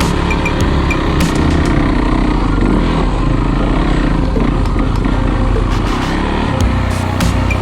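Dirt bike engine running steadily, loud, with scattered sharp clicks and clatter.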